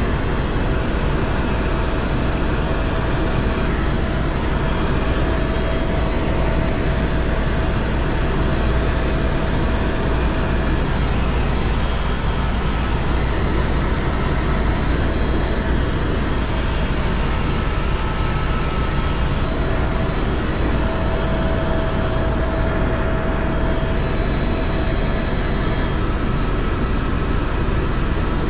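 Helicopter in flight: a steady drone of engine and rotor with a heavy low rumble, and a faint steady whine that comes and goes.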